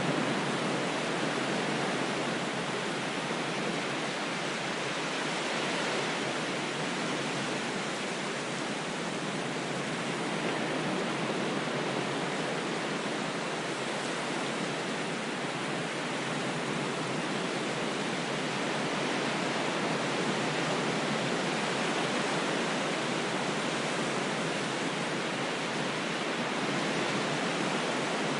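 Steady, even rush of water noise, sold as calming ocean waves, with no separate wave surges, only slight slow swells in loudness.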